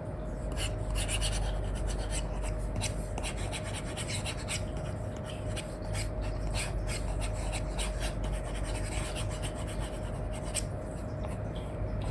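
Stylus nib scratching and rubbing across a paper-like screen protector on an iPad, in many short, quick strokes as it colours, over a steady low hum.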